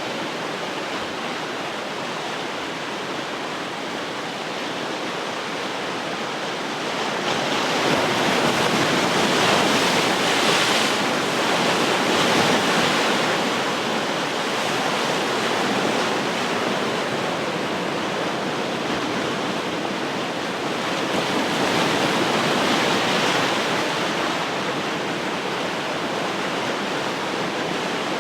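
Ocean surf: a steady rush of waves breaking and washing ashore, swelling louder twice, about a third of the way in and again past the middle.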